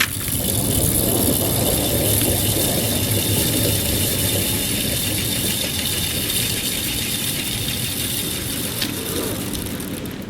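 Truck running under load as it pulls a log up a slope on a cable through snatch blocks, with a steady mechanical rattle over a low rumble that builds at the start and eases near the end.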